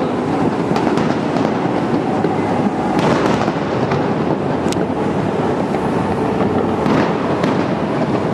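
Aerial fireworks bursting in a continuous barrage of booms and crackling, with a few sharper cracks standing out about three, five and seven seconds in.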